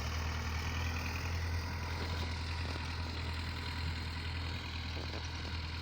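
Tractor engine running steadily at a low, even hum.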